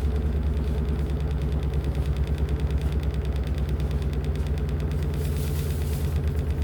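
LG top-loading washing machine running: a steady low motor hum with a rapid, even pulsing, and a brief rise of hissing noise about five seconds in.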